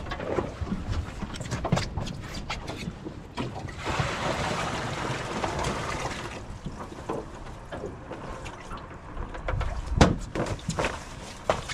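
Knocks and clatter of gear against an aluminum boat hull, with a sharp loud knock about ten seconds in. A stretch of hissing noise runs for about two seconds, starting about four seconds in.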